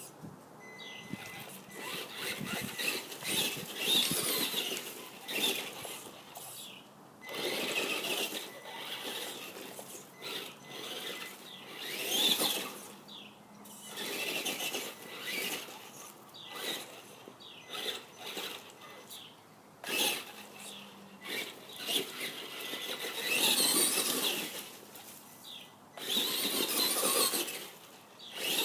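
Traxxas RC monster truck's motor whining in repeated short bursts of throttle, starting and stopping every second or few as it is driven around in mulch.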